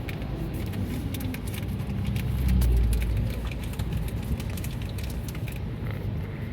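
Steady low road rumble inside a moving car's cabin, with scattered light ticks of rain on the car. A deeper rumble swells and fades about two and a half seconds in.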